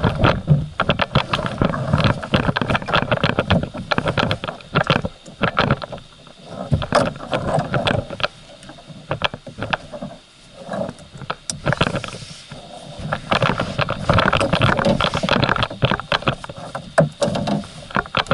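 Irregular knocks, thumps and scrapes of a person shifting and turning around in a folding plastic kayak, with a quieter spell about halfway through.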